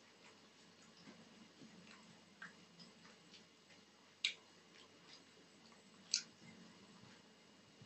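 Faint close-miked eating sounds: chewing with scattered small wet mouth clicks, and two sharper clicks about four and six seconds in.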